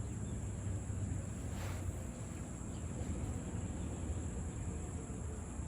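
Steady high-pitched chirring of insects, likely crickets, over a constant low rumble.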